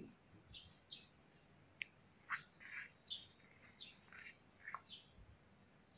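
Faint, scattered bird chirps, a dozen or so short calls, over near silence, with one faint tick about two seconds in.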